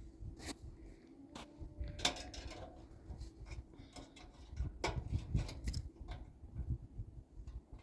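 Irregular metallic clanks and knocks from a chimney pipe being handled and fitted, over a low rumble.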